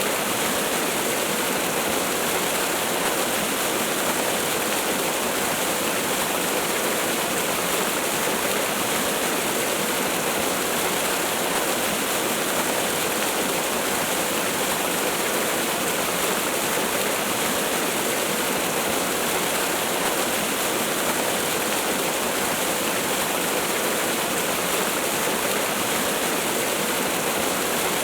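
Waterfall rushing steadily: an even, unchanging hiss of falling water with little low rumble.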